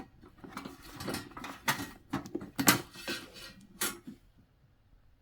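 Clicks and knocks of hard plastic as a plastic cap on a diesel heater is unscrewed and lifted off, with the parts handled; it stops about four seconds in.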